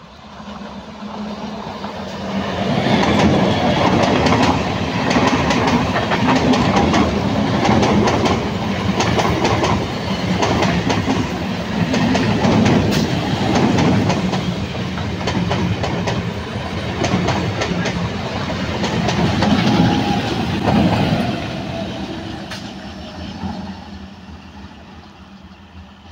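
Indian EMU electric local train passing close at speed, its wheels clattering rapidly over the rail joints. The sound builds over the first few seconds as the train nears, stays loud while the coaches go by, and fades away from about 21 seconds on.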